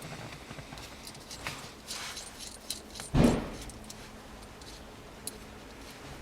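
Small metal parts clinking and rattling as they are handled, with one heavy thud about three seconds in.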